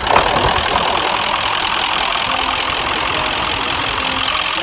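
1996 Ford F-350's 7.3 L Power Stroke turbo-diesel V8 idling steadily with its diesel clatter, running just after being started.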